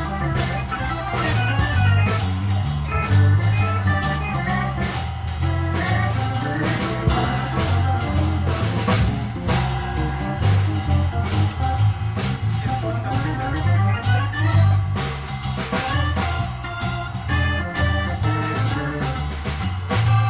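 Jazz organ trio playing: organ melody lines over low six-string bass notes and a drum kit keeping steady time.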